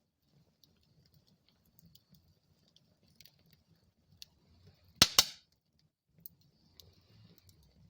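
Wood fire burning in a fireplace, with a soft low rumble and sparse small crackles. About five seconds in, two loud sharp pops come in quick succession.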